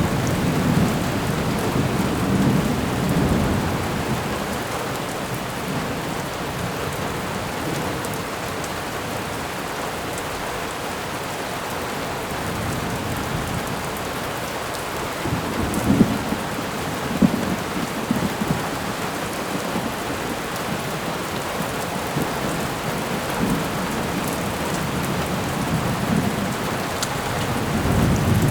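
Thunderstorm: steady rain with low rumbles of thunder near the start, around the middle and again at the end.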